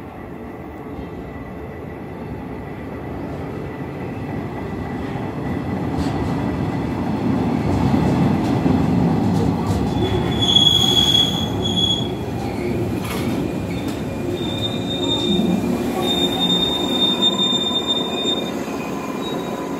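A JR electric local train pulls into the platform and slows to a stop, its rumble building up and then easing. High thin squeals sound several times in the second half as it brakes.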